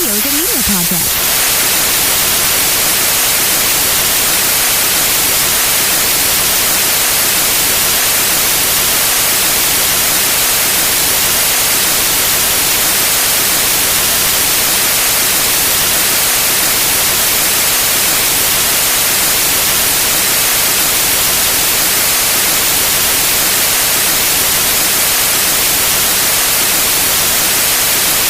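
Steady synthetic white noise: an even, unbroken hiss, brightest in the high end.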